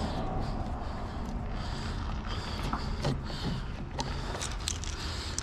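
Clamps being loosened and taken off a steel door: a few light metal clicks and rattles over a steady background hiss.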